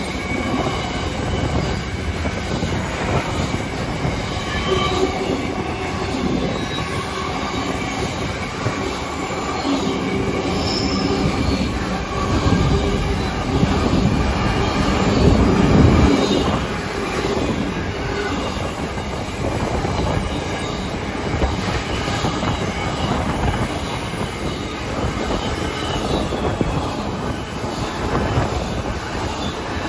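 Container wagons of a freight train rolling past at close range: a steady rumble of steel wheels on the rail with faint high squealing tones. It swells loudest about halfway through.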